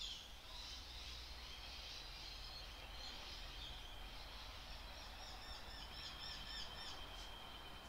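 Faint background birdsong: small birds chirping, with a run of quick high chirps in the second half, over a low steady hum.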